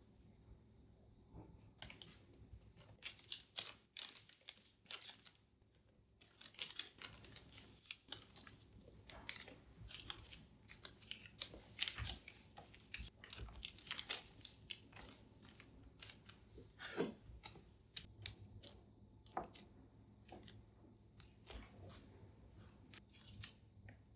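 Close household handling sounds: an irregular run of short clicks, rustles and snipping or tearing noises in a small room.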